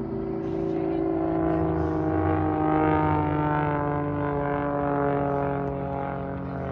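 Propeller-driven display aircraft flying past, its engine drone loudest about three seconds in and then dropping slowly in pitch as it moves away.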